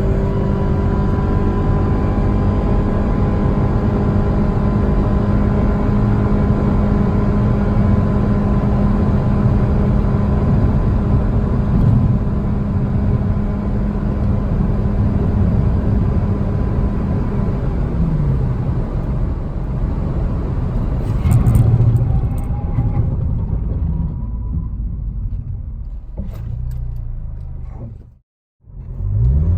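Mitsubishi Lancer GT's 2.0-litre 4B11 four-cylinder engine with a CVT, running under load at a steady, held pitch for about eighteen seconds, typical of a CVT keeping the revs constant while the car accelerates. The revs then fall away. Near the end the sound cuts out briefly, then the revs climb again.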